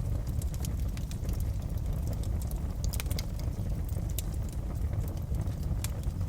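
Wood fire crackling in a fireplace: scattered sharp pops and snaps over a steady low rumble, with a small cluster of louder snaps about three seconds in.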